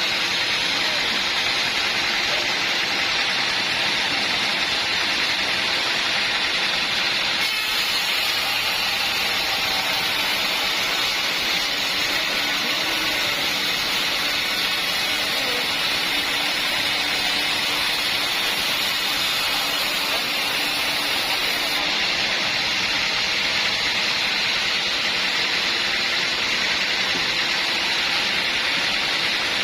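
Sawmill machinery running: a steady, loud rushing noise with no rhythm and no clear pitch.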